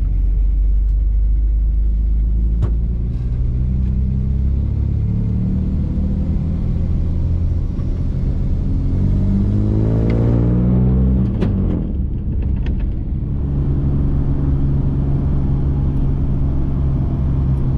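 1954 Chevrolet's engine heard from inside the cabin while driving: a steady rumble, then revving up in rising pitch before the pitch drops sharply about two-thirds of the way through as it shifts up, settling into a steady cruise.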